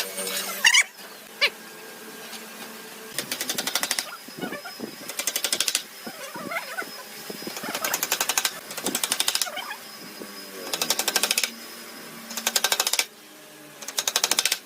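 A power tool with a rapid hammering action, such as an impact driver, run in about seven short bursts of fast clicking in woodworking.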